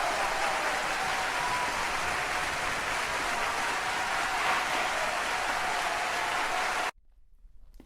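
Crowd applauding: a dense, even clatter of many hands clapping that cuts off abruptly about seven seconds in.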